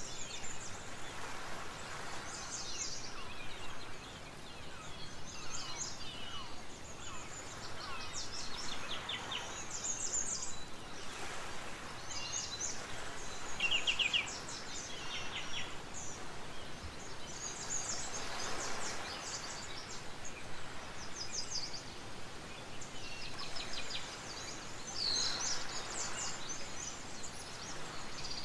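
Birds chirping and trilling over a steady background hiss, with short calls and quick trills scattered throughout.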